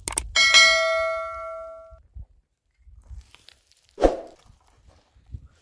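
A metal object struck once, ringing with several clear tones that fade over about a second and a half, followed about four seconds in by a short dull thump.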